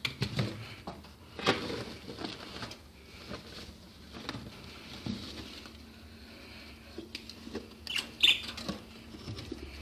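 Light scratching, scrabbling and tapping of budgies moving about in their cage and nest box: scattered small clicks with no steady rhythm.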